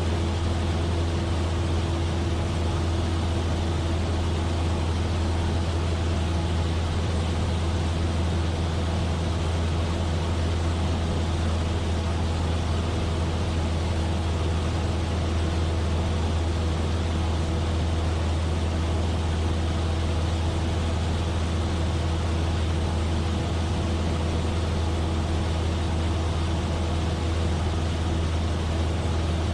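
Cessna 172F's Continental O-300 six-cylinder engine and propeller in flight, a steady, even drone with a deep hum and a fainter steady tone above it.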